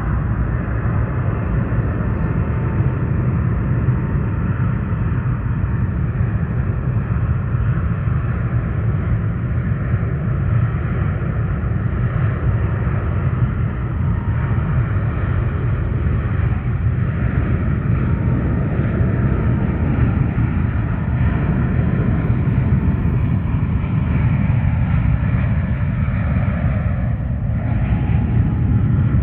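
Jet airliner engines running loud and steady: a deep rumble with a high whine over it.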